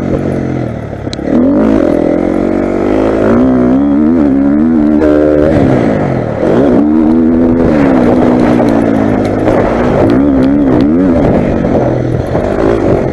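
Motocross bike engine revving hard, its pitch climbing and dropping again and again under the throttle.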